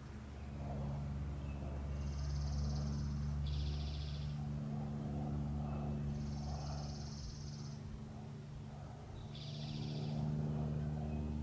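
Songbirds trilling: four short, rapid trills, two higher and two lower, alternating, over a steady low hum.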